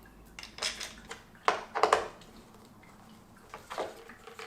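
A handful of separate clicks and rattles of snowboard binding hardware being handled and fitted to the board.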